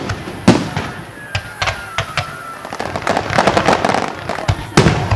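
Aerial fireworks shells bursting in a series of loud bangs, with a burst of rapid crackling about three to four seconds in.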